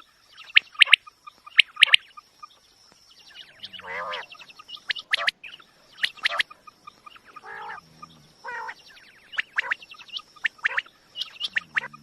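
Quail calling: a rapid run of sharp, short high-pitched notes and quick trills, broken by several lower, warbling calls. This is the kind of call recording used as a lure for quail hunting.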